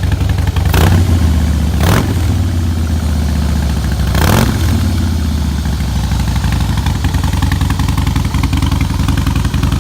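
Harley-Davidson Breakout's 1690cc V-twin idling through Vance & Hines Big Radius aftermarket exhausts. The throttle is blipped three times, about one, two and four and a half seconds in, and then it settles back to a steady idle.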